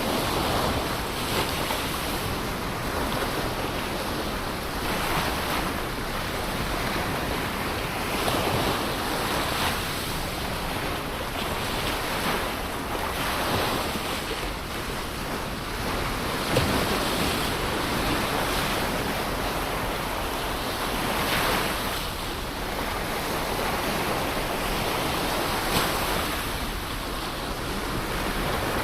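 Ocean surf washing onto a shore: a continuous rush of breaking waves that swells every few seconds as each wave comes in.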